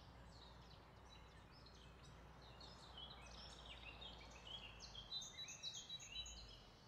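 Near silence, with many faint, short bird chirps starting about two and a half seconds in.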